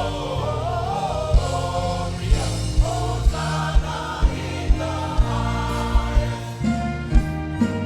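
Choir singing gospel music with instrumental backing, over a steady drum beat of about two beats a second.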